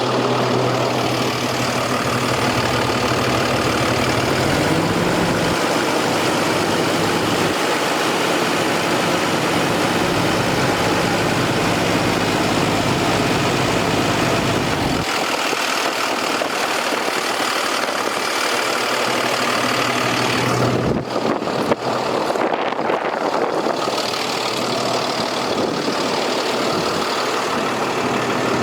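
Cummins 6.7L ISB inline-six diesel of a 2018 International 4300 dump truck running at idle. Its engine speed steps up about four seconds in and drops back to idle around fifteen seconds in.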